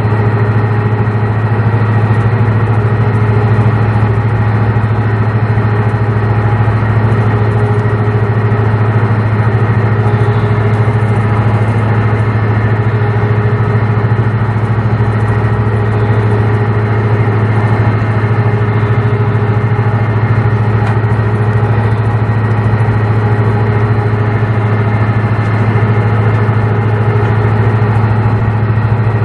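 A large engine running steadily at constant speed: a loud, unchanging low hum with overtones and no revving.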